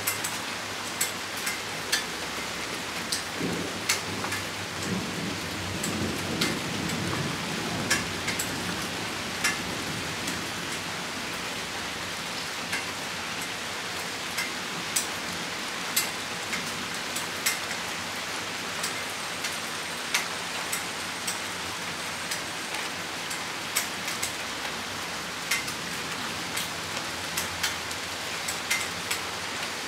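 Rain shower falling steadily with a constant hiss, big drops ticking sharply and irregularly on a nearby surface. A low rumble of thunder comes in about three seconds in and dies away a few seconds later.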